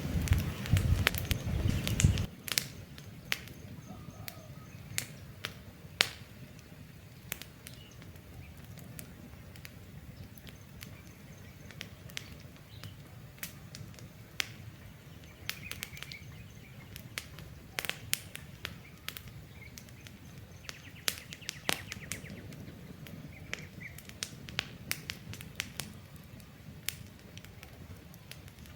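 Campfire crackling, with sharp irregular pops and snaps from the burning wood and birds chirping faintly in the background. A loud low rumble fills the first two seconds and cuts off suddenly.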